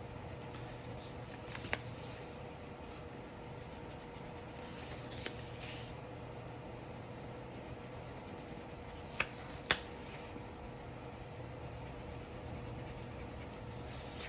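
Red crayon rubbing lightly over paper as a very light layer of color is put in, with a few small clicks about two seconds in and twice near the end, over a steady low hum.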